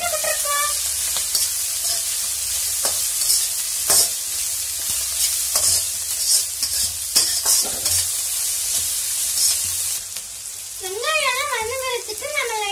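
Sliced onions and green bajji chillies sizzling in a metal wok, a spatula stirring them with scattered clicks and scrapes against the pan. The sizzle drops away about ten seconds in.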